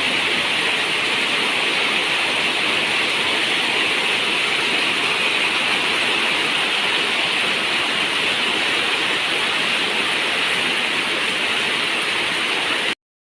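Steady, dense rain on a zinc roof, a continuous hiss with no single drops standing out, that cuts off suddenly near the end.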